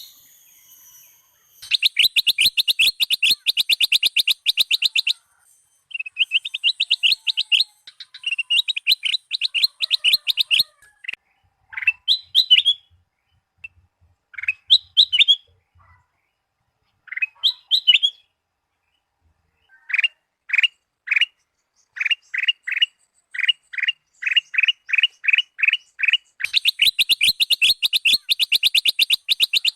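Ruby-throated bulbul (kutilang emas) singing: fast chattering trills of repeated high notes broken by short pauses. In the middle come a few short phrases, then a run of separate clear notes that quickens into another dense trill near the end.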